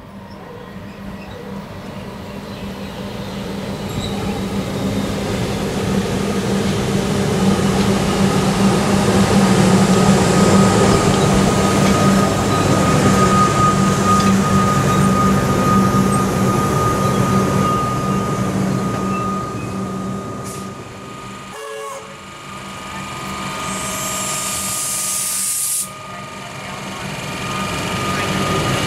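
Comeng electric suburban train approaching and running along the platform: rumble of wheels on rail building up over the first ten seconds, with a steady high whine through the second half. A short burst of air hiss cuts off sharply a few seconds before the end.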